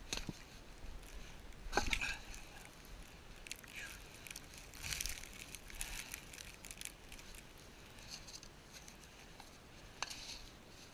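Footsteps crunching in snow, slow and uneven, with a step roughly every one and a half to two seconds.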